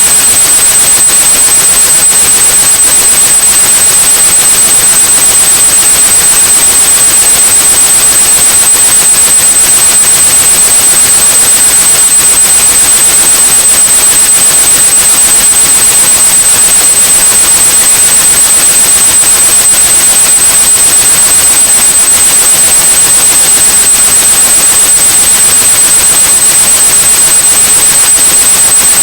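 Synthetic white noise with a steady, high-pitched 8100 Hz sine tone over it, both held constant as a tinnitus-masking sound.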